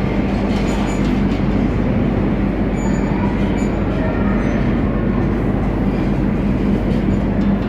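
Metro train running: a steady, loud rumble with a low hum, and a few faint, brief high squeaks.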